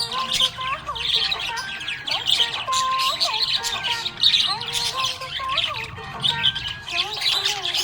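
Budgerigar chirping and chattering continuously, a rapid stream of high chirps and squawks over warbling, gliding notes.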